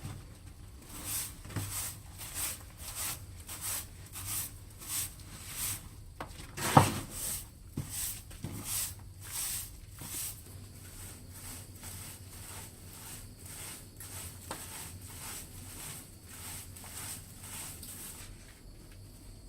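Repeated scraping or brushing strokes, about two a second, with one sharp knock about seven seconds in.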